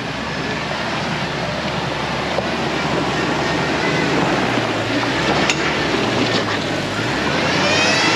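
Off-road 4x4 engine running under a steady rumbling noise, revving up and easing back down near the end, with one sharp click about five and a half seconds in.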